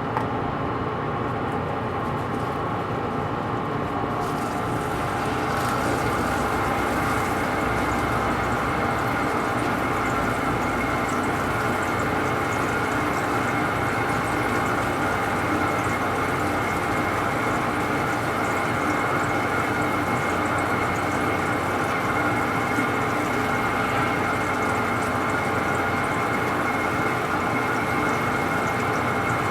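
Metal-turning lathe running steadily while machining a large pot-bearing part, a continuous machine drone with several steady whining tones. It grows a little louder and brighter about five seconds in.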